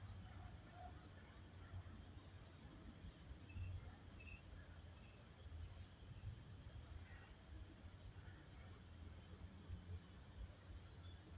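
Faint outdoor ambience dominated by an insect's steady, evenly pulsing high chirping, over a low rumble. A few faint short bird chirps sound a few seconds in.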